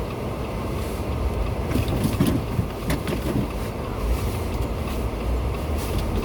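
A vehicle engine running steadily with a low rumble, with a few short scrapes or crunches between about two and three and a half seconds in.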